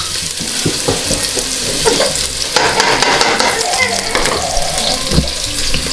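Ginger, garlic and onion sizzling in hot oil in a stainless steel stockpot, stirred with a wooden spoon that gives a few scattered knocks and scrapes against the pot.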